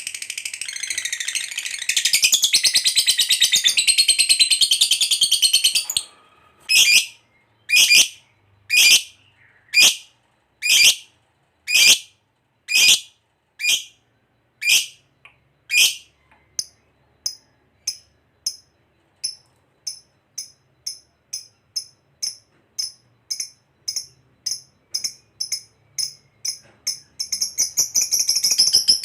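Lovebird ngekek, its long, rapid, high-pitched chattering trill, for about six seconds. It then breaks into separate sharp calls about one a second, which quicken to about two a second, and the rapid chattering starts again near the end.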